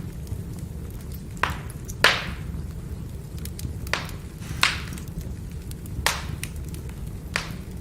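Burning firewood: a steady low rumble from the fire, with about six sharp crackling pops from the wood. The loudest pop comes about two seconds in.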